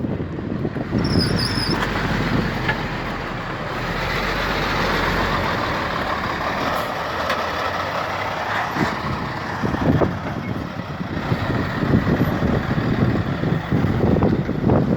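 Kenworth W900 semi truck passing on the road; its engine and tyre noise builds and fades over several seconds. Gusty wind on the microphone follows near the end.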